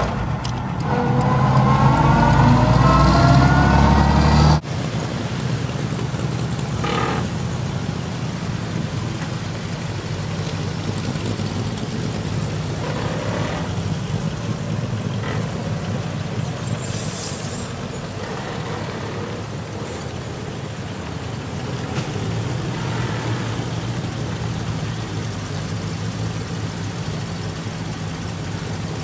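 1928 Dodge coupe's engine pulling and rising in pitch as the car drives, heard from inside the car. It cuts off abruptly after about four and a half seconds. Then a vintage car engine runs steadily and more quietly outdoors, with a few faint short noises over it.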